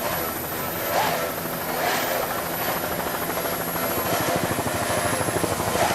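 Powerful engines running steadily at high speed, with a fast pulsing beat and a swell about every second or two, and a thin high whine throughout.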